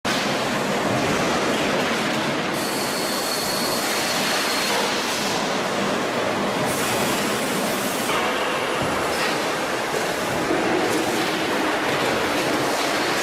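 Factory machinery running on a water heater tank production line: a steady, loud, noisy metallic din, with a thin high squeal of metal from about two and a half seconds in, lasting about two seconds.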